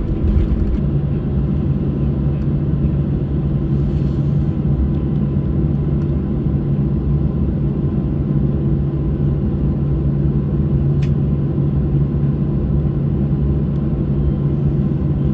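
Cabin noise of a Boeing 737-600 taxiing after landing: a steady low rumble from its CFM56 engines at idle, with a steady hum setting in about a second in.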